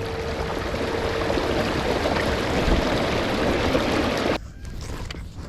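A kayak under way on an electric outboard: rushing water and wind over a steady motor whine. It cuts off abruptly about four seconds in, leaving a quieter hiss.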